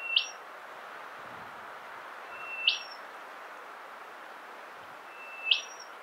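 Rufous whistler calling three times, about two and a half seconds apart. Each call is a short held whistle that snaps sharply upward in pitch at the end.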